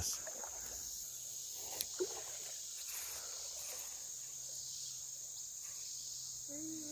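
Steady high-pitched chorus of insects, with two faint clicks about two seconds in.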